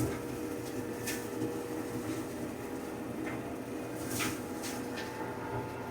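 Compact tractor engine and flail mower running steadily while mowing, a steady drone with a held tone, and a few light clicks or knocks.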